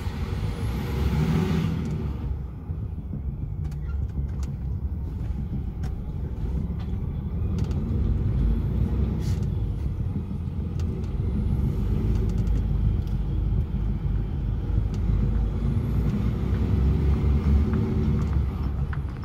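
DAF XF 480 truck's six-cylinder diesel engine running steadily as the truck drives, with a short hiss of air in the first two seconds.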